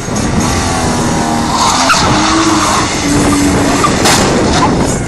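Car engine running hard at high revs while the tyres skid on the pavement, a loud steady din.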